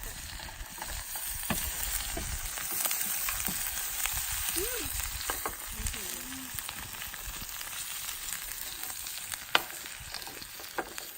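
Food sizzling and frying in a pan over a campfire: a steady hiss with scattered small ticks and pops, one sharper tick about nine and a half seconds in.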